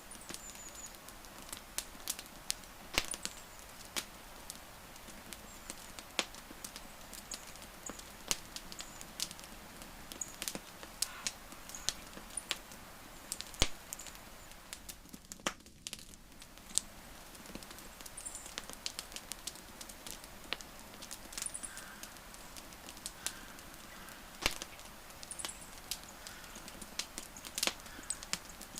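Wood fire crackling: irregular sharp pops and snaps over a steady low hiss, with faint short high chirps here and there. The hiss drops out briefly about halfway.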